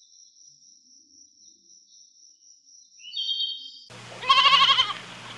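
Goat bleating once near the end, a loud quavering bleat. Before it there are a few quiet seconds with only a faint steady high-pitched tone.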